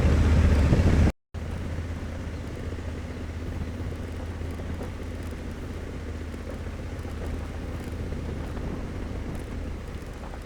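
Honda CRF1100L Africa Twin's parallel-twin engine running at a steady low hum. The first second is a loud rush that cuts off abruptly.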